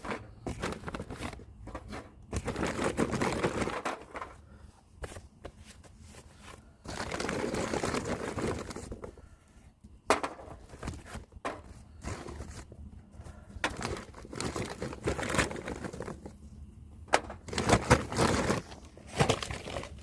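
Handling noise: crinkling and rustling with scattered knocks and clicks, coming in uneven bursts.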